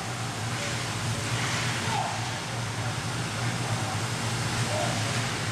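Ice rink ambience: a steady low hum under an even hiss of noise, with faint scattered voices.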